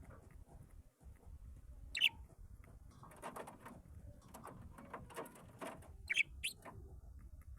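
Cage birds chirping: a short, sharp high call about two seconds in and two more close together near the end, with scratchy rustling in between.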